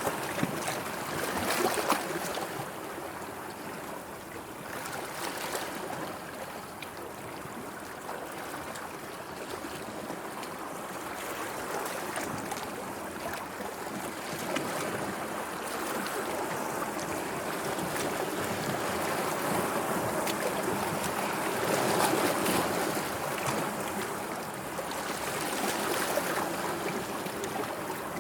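Sea waves washing in, a steady wash that swells and eases every few seconds, loudest about two seconds in and again near the end.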